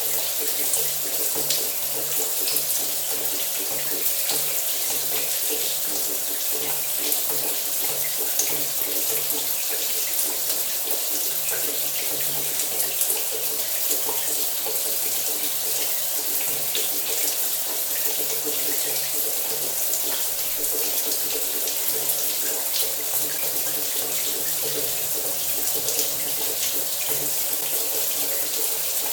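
Shower water running steadily, spray hissing and pattering on a hard surface with small droplet ticks.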